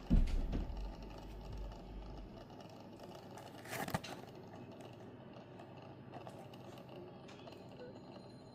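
Faint handling noises from a diecast car's package: a low bump at the start, then a brief rustle with a small click about four seconds in.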